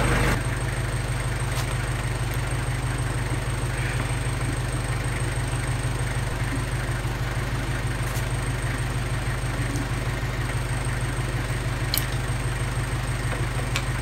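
Kubota L35 tractor's diesel engine idling steadily, with a few faint clicks over it.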